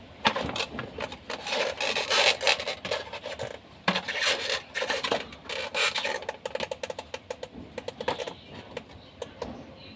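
A refrigerator cover panel being shifted and pushed into position by hand: scraping and rubbing with many quick clicks, busiest in the first six seconds, then a few scattered clicks.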